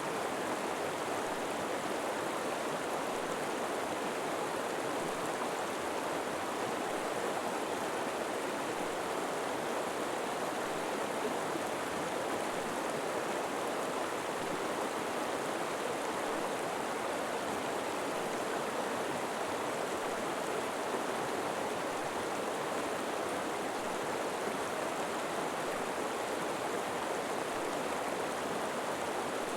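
River water flowing over rocks in a steady, even rush with no breaks.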